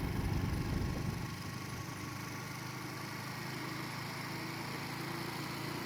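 Motorcycle engine running steadily, a little louder in the first second before settling.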